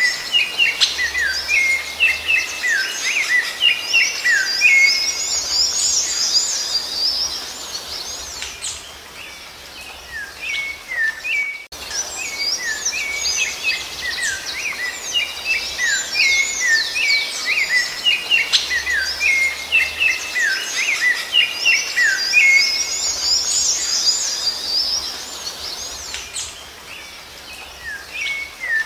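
Rufous-bellied thrush (sabiá-laranjeira) singing: long runs of quick, high chirping and whistled notes. The song thins out partway through, breaks off abruptly, then starts up again and fades near the end.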